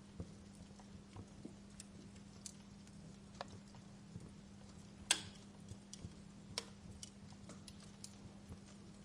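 Wood fire crackling in a fireplace: irregular sharp pops and crackles, the loudest pop about five seconds in, over a faint steady low hum.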